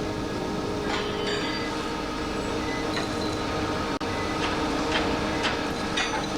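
Railway sounds: a steady rumble of freight rolling stock with scattered sharp metallic clanks, several in the second half.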